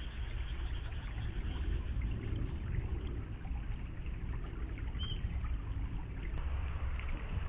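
River water running and trickling steadily, with a low rumble underneath and one short high chirp about five seconds in.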